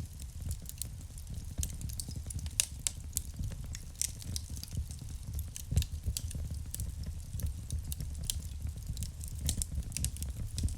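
Wood fire burning in a fireplace: a steady low rumble of flames with frequent irregular pops and crackles from the burning logs.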